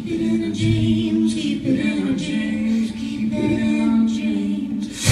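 Live acoustic music: voices holding long sung notes, with a short, rhythmic accompaniment stroke about once a second.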